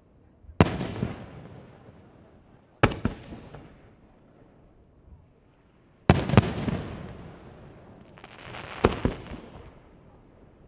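Aerial firework shells bursting: sharp bangs about half a second in, near 3 seconds, a double bang around 6 seconds, and one near 9 seconds that is preceded by about a second of crackling. Each bang is followed by a long fading rumble.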